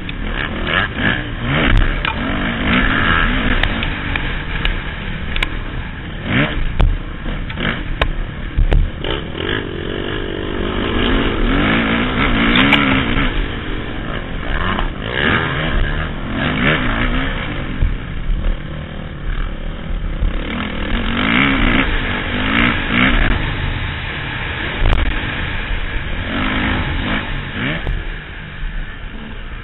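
Motocross bike's engine revving up and falling back again and again as the rider accelerates and brakes around the track, heard from the rider's helmet, with scattered knocks and clatter.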